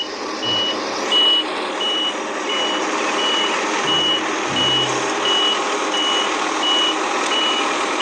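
Tandem road roller working on fresh asphalt, its reversing alarm beeping steadily a little under twice a second over the machine's running engine.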